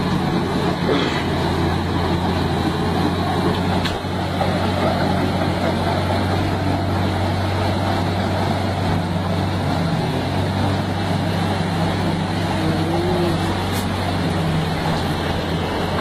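A heavy vehicle's engine running steadily, a constant low drone with no change in speed.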